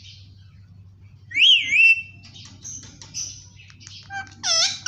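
Indian ringneck parrot whistling loudly about a second and a half in, a pitch that rises, falls and then holds. Softer high chirps and chatter follow, and near the end comes a loud call with a wavering pitch.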